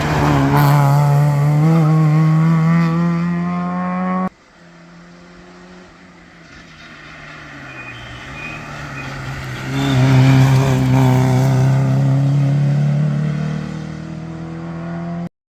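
Rally car engines at full throttle. One car accelerates hard, its engine note climbing steadily, until the sound cuts off abruptly about four seconds in. A second car is then heard coming closer, getting louder and holding a loud, steady note as it passes, before the sound cuts off suddenly near the end.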